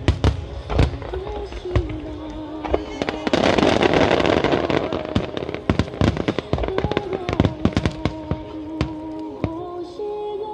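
Aerial fireworks bursting in rapid, irregular cracks and bangs over music played through loudspeakers. About three seconds in, a dense spell of crackling lasts a couple of seconds.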